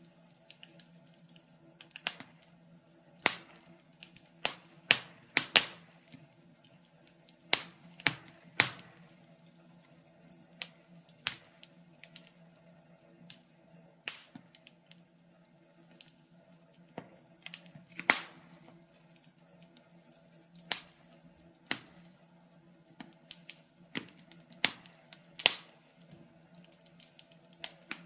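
Wood fire in a fireplace crackling, with sharp pops at irregular intervals, bunched in places and sparse in others, over a faint steady hum.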